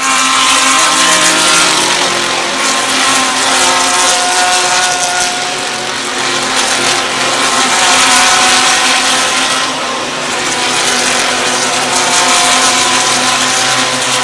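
Several GT3 race cars' engines at high revs going past together, loud, with more than one engine pitch sounding at once and slight dips about six and ten seconds in.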